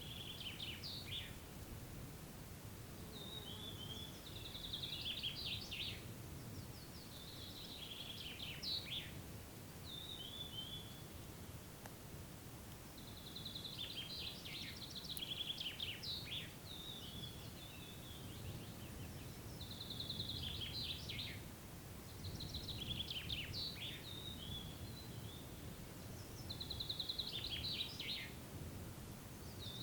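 A songbird singing the same short phrase over and over, about every three seconds. Each phrase is a quick run of high notes that falls away in pitch. Under it is a steady low background rumble.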